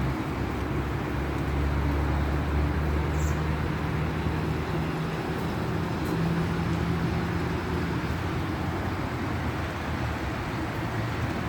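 Steady outdoor background: an even hiss of light rain over a low, constant rumble.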